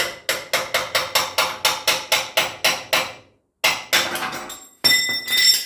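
Hammer striking the steel frame cross member of a 1946 Willys Jeep, tapping it into place on the frame. About a dozen quick, even blows come at roughly four a second, then a short pause and a few more, and the last blows leave the metal ringing.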